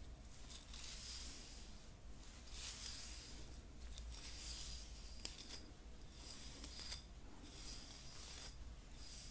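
Hairbrush bristles scratching in repeated soft strokes, roughly one every second or two with short pauses between them.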